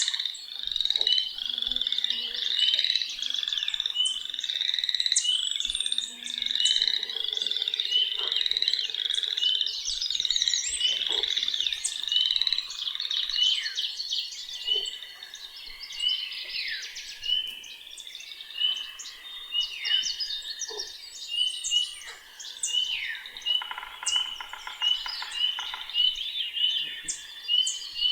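Chorus of many frogs calling at once, overlapping streams of short, high, evenly repeated peeping notes, with a rapid trill about three-quarters of the way through. Birds sing a few downward-sliding whistles over the chorus.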